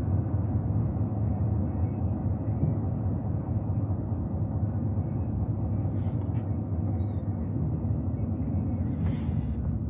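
Pickup truck's engine and tyres heard from inside the cab while driving: a steady low rumble.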